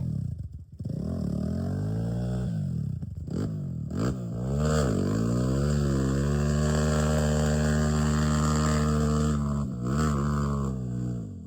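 Dirt bike engine under way, its pitch rising and dropping with throttle and gear changes. It holds a steady pitch for about five seconds in the middle, then eases off near the end.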